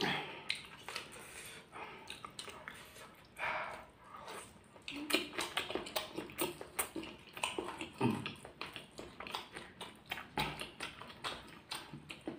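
Close-up eating sounds: chewing, smacking and wet mouth clicks as rice with balado eggs and raw chilies is eaten by hand. There is a short hiss of breath about three and a half seconds in, and a few brief hum-like mouth sounds in the middle.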